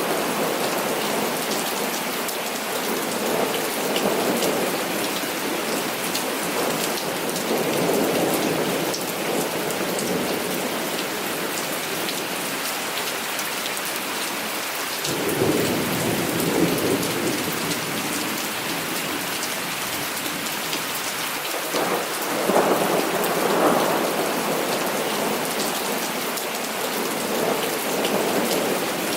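Heavy rain falling steadily with many fine drop ticks. Thunder rumbles roll in at intervals, the biggest about fifteen seconds in and again a few seconds past twenty.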